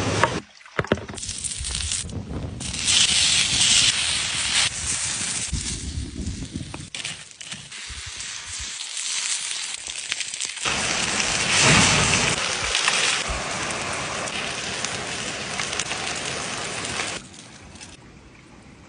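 Outdoor cooking sounds in a run of short clips that cut abruptly from one to the next: a wood fire crackling and food sizzling on hot stones, a steady hiss, quieter near the end.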